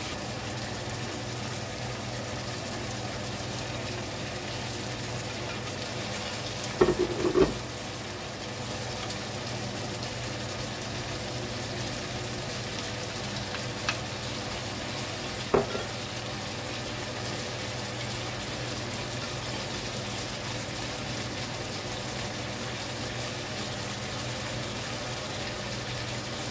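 Chicken frying in a nonstick pan, a steady sizzling hiss with a low hum underneath. A utensil clatters against the pan about seven seconds in, and there is one more sharp knock around fifteen seconds.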